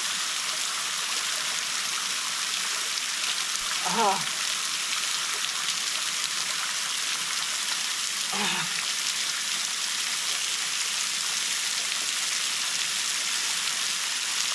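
A waterfall's stream splashing steadily down into a rock pool: an even, hissing rush of falling water that overpowers the microphone.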